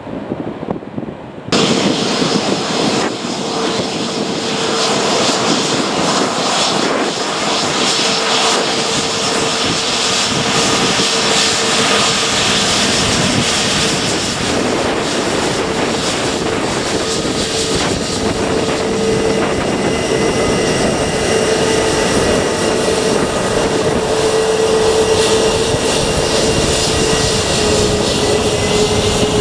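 Departing airliner's engines running at takeoff power, a loud steady noise with a steady whine in it. It starts abruptly about a second and a half in, and the whine dips slightly in pitch near the end.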